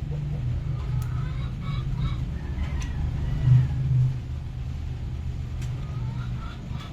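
An engine running steadily with a low hum that swells briefly about three and a half seconds in.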